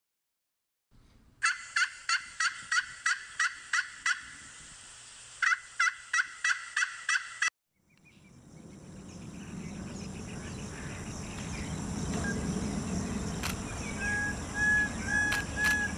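A bird calling in fast runs of short, repeated notes, about three or four a second: one run of about nine notes, a short pause, then six more, cut off abruptly. After that a steady background noise swells up, and near the end another bird gives a string of short, evenly spaced calls.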